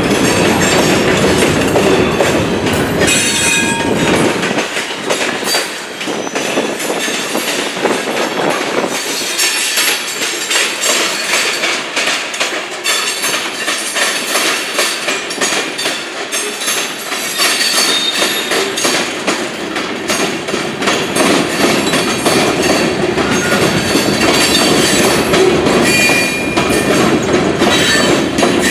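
Railroad cars rolling past, wheels clicking and clattering over rail joints and switches, with some wheel squeal. The low rumble thins out for a stretch in the middle, then builds again near the end.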